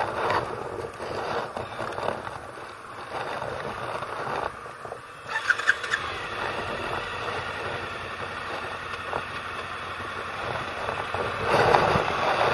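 Motorcycle engine running with the bike barely moving, a steady mechanical noise. It dips briefly about four and a half seconds in, followed by a few sharp clicks.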